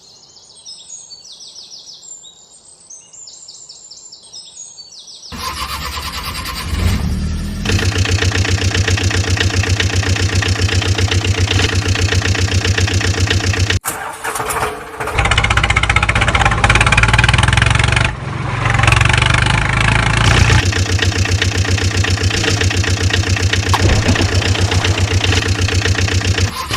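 Birds chirping for about five seconds. Then an engine starts and runs with a steady, rhythmic chug, dipping briefly about halfway through before carrying on.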